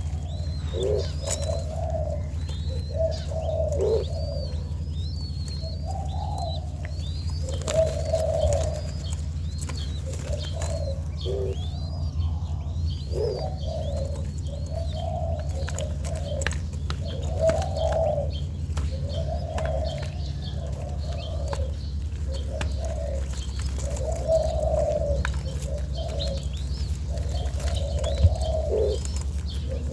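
Young spotted dove cooing over and over, a low coo every second or two, with smaller birds chirping faintly higher up and a steady low hum underneath.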